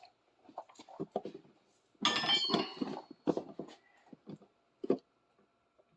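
Metal hand tools being handled on a workbench: a scatter of light knocks and clicks, with one ringing metal clink about two seconds in.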